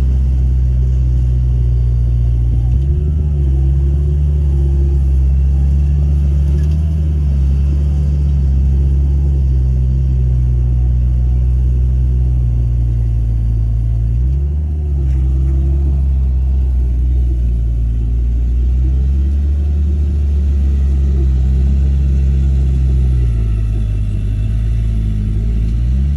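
Heavy diesel engine of a crawler bulldozer running loudly and steadily, its pitch dipping and rising a few times as the load changes.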